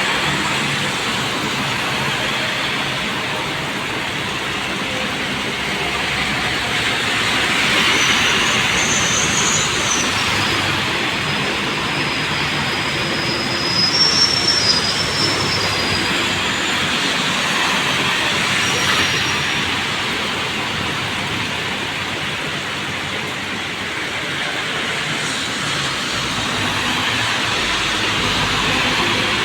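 Road traffic on a wet road in the rain: a steady hiss of tyres and rain that swells as vehicles pass, with brief high-pitched squeals in the middle.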